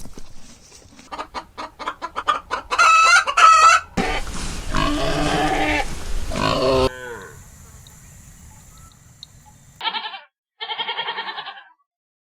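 Chickens: a hen's rapid clucking quickens into loud cackles over the first few seconds, followed by a long rooster crow of about three seconds. Near the end come two short wavering bleats, from a goat.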